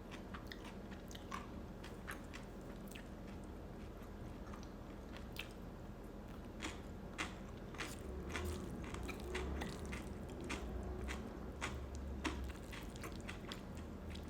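Close-miked chewing of rabokki and black bean noodles, with wet mouth clicks scattered throughout and soft low bumps of the jaw between about eight and twelve seconds in.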